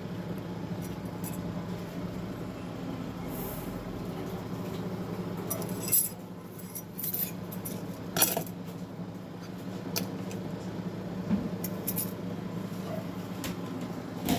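Metal automatic-transmission parts clinking now and then as they are handled, with a few sharp clicks, the loudest about six and eight seconds in, over a steady low hum.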